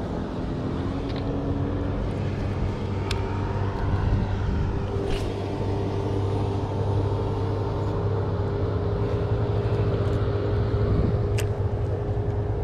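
A motor engine drones steadily at a constant pitch throughout, with a few faint clicks over it.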